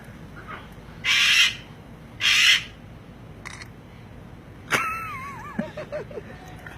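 A parrot squawking: two loud, harsh screeches about a second apart, then a softer wavering whistled call that falls in pitch near the end.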